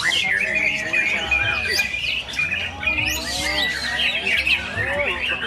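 Several white-rumped shamas (murai batu) singing at once, a dense run of rapid whistles, chirps and harsh squawks, with people's voices underneath.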